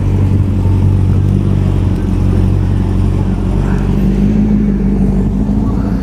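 A car engine running steadily, its low note shifting slightly higher about four seconds in.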